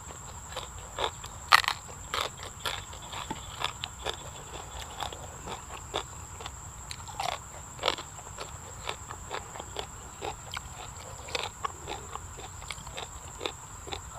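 A person biting and chewing crisp fresh raw vegetables close to the microphone: irregular crunches and wet chewing clicks, the loudest about a second and a half in.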